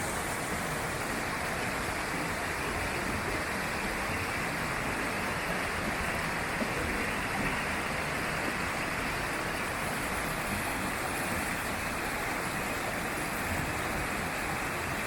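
A steady, even rushing noise with no distinct events, the kind made by running water.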